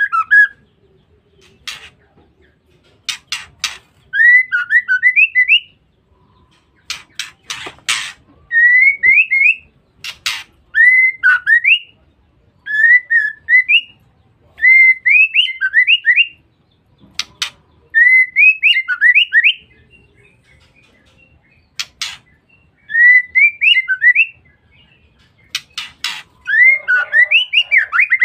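Female white-rumped shama (murai batu) calling: short phrases of quick rising whistled notes, repeated every second or two, with sharp clicks between the phrases.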